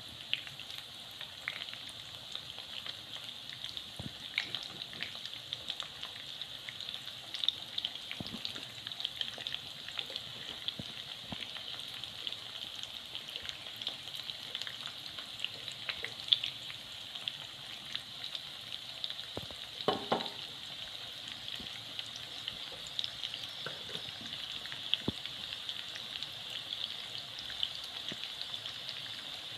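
Breaded minced-meat kebab patties shallow-frying in oil over low heat: a steady sizzle with small crackling pops, and a few sharp clicks of metal tongs against the pan as the patties are turned.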